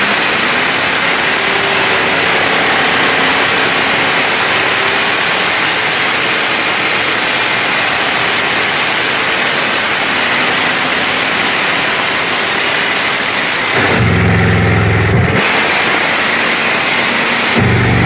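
Cammed small-block V8 of a 1968 Chevrolet Chevelle on open headers, running hard at high revs as a loud steady rushing roar. About fourteen seconds in, and again near the end, it drops to a deep low rumble as the revs fall.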